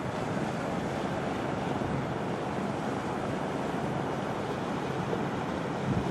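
Steady rushing of wind and small waves on a beach, an even noise with no distinct events.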